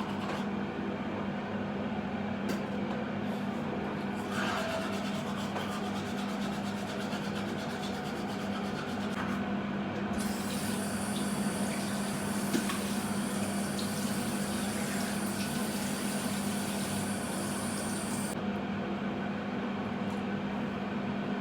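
Steady mechanical hum with an even rushing hiss. A faint high whine and extra hiss come in about halfway through and stop a few seconds before the end.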